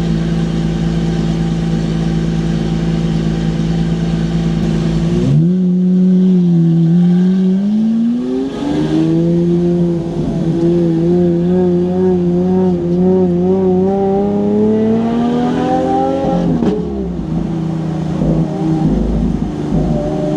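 Car engine running at a steady speed, then revved: the pitch dips and climbs again, rises slowly for several seconds and falls back sharply about three quarters of the way through, then holds steady.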